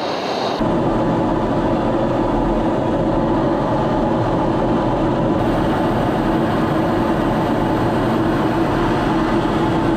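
F-16 Fighting Falcon jet engine running, a steady loud rush with a low hum that starts abruptly about half a second in.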